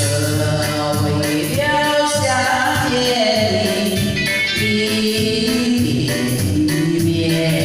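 Music: a voice singing a melody over instrumental backing, with the singing starting about a second in after a guitar-led instrumental passage.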